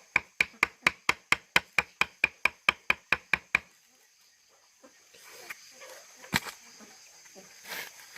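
Rapid, evenly spaced chopping strikes, about four or five a second, about sixteen in all, stopping about three and a half seconds in. After them come faint scattered knocks and one sharper knock.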